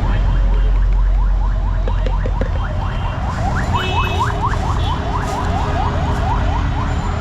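Jhal muri being mixed in a metal container: a fast, rhythmic run of scraping, clinking strokes, about five or six a second, building after about a second and thinning out near the end, over a steady low street rumble.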